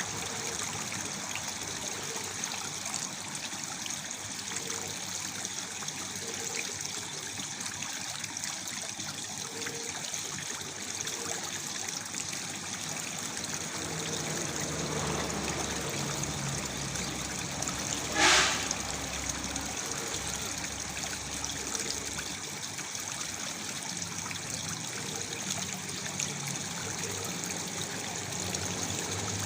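Waterfall splashing and trickling steadily into a pool. A single brief, sharp sound stands out about two-thirds of the way through.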